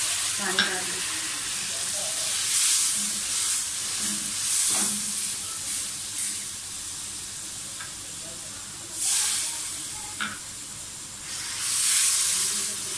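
Spices and chopped onion, chillies and ginger-garlic frying in hot ghee in an aluminium pan, sizzling in waves that swell each time the mixture is stirred, with a few short clicks of the spatula against the pan.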